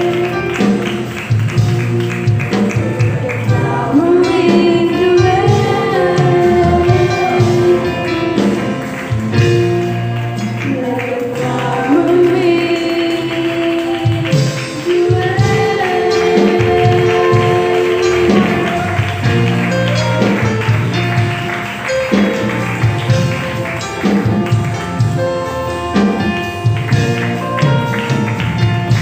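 A youth choir singing a song with instrumental accompaniment and percussion keeping a steady beat.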